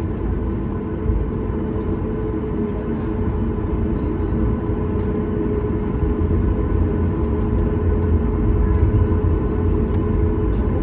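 Boeing 737 MAX 8 airliner's CFM LEAP-1B jet engines running with a deep rumble and a steady whine, growing gradually louder.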